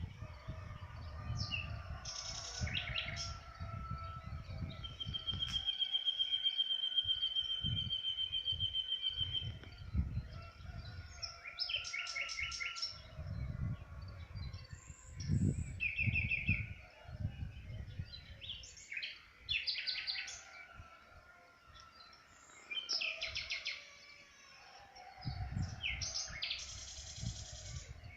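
Songbirds singing: short repeated phrases of quick high notes, with one long, even trill of about four seconds beginning some five seconds in. A low rumble runs underneath for much of the time.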